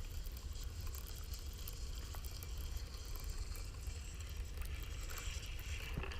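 Wind rumbling on the microphone as a steady low noise, with a faint crackle above it.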